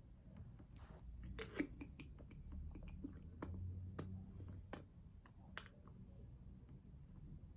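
A scattered run of light clicks and taps, about a dozen, over a faint low steady hum, the sharpest about a second and a half in.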